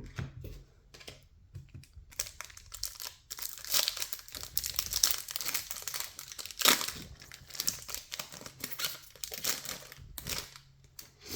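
Irregular rustling and crinkling of baseball trading cards being handled and flipped through by hand, with small clicks.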